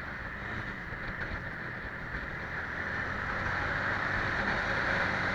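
Scania 111 truck's diesel engine and road noise while driving, with some wind, growing slowly louder.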